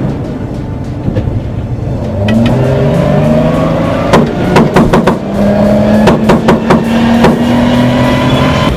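A vehicle engine running, its pitch rising about two seconds in and then holding steady, with quick clusters of sharp cracks about four and six seconds in.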